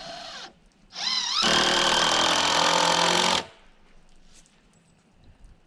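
A handheld power tool: a short spin-down at the start, then about a second in it spins up with a rising whine and runs loud and steady for about two seconds before stopping suddenly.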